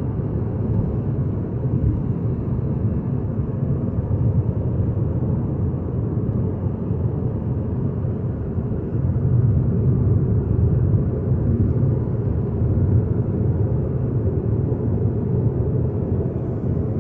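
Steady road and engine rumble heard from inside a moving car, a little louder about nine seconds in.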